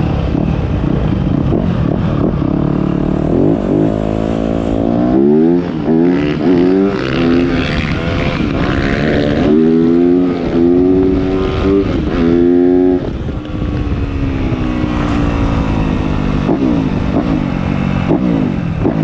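Motocross bike engine revving hard and accelerating, its pitch climbing again and again as it pulls through the gears, then easing off about thirteen seconds in.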